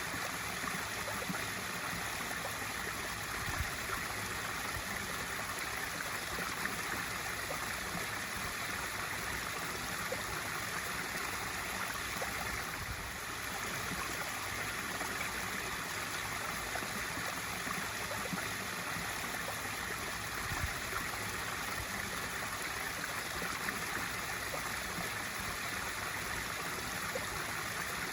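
A swimming pool's waterfall feature running: a steady splash of water pouring into the pool, unchanging throughout.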